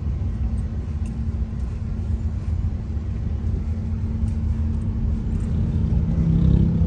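Car driving along an unpaved road, a steady low rumble of engine and tyres, with a deeper tone coming up about six seconds in.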